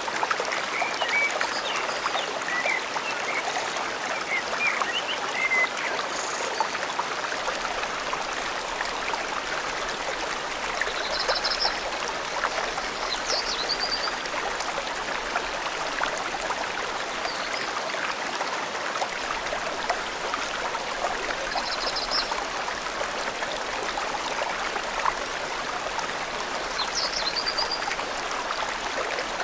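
Forest stream flowing steadily. Small birds chirp over it: a run of short calls in the first few seconds, then higher chirps every few seconds.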